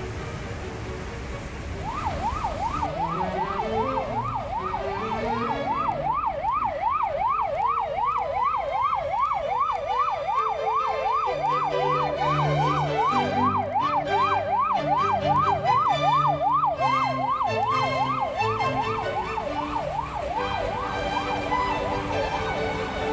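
Emergency vehicle siren in a fast yelp, its pitch rising and falling two to three times a second, starting about two seconds in and fading near the end, over background music.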